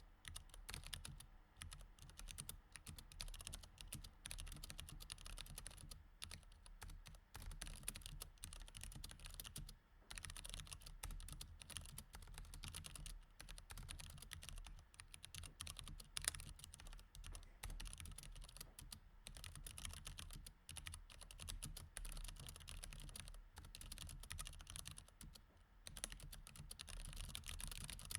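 Mechanical keyboard with Cherry MX Red switches being typed on continuously: a fast, uneven run of key clicks with brief pauses, one louder clack about sixteen seconds in, over a faint steady low hum.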